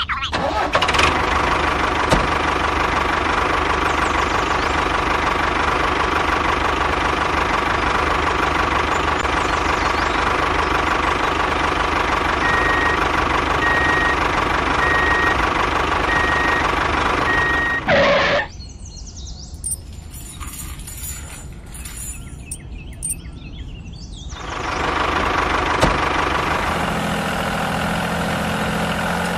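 A motor or engine running steadily and loudly, with a steady whine, until it winds down with a falling pitch about eighteen seconds in. After several quieter seconds, a lower, even engine-like hum starts up again.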